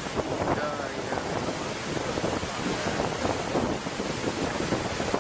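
Turbulent water rushing, with wind buffeting the microphone and faint voices in the background.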